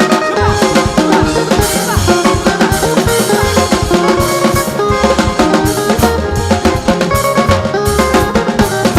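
Live band music with a busy drum kit, bass drum and a steady beat, pitched instruments playing over it.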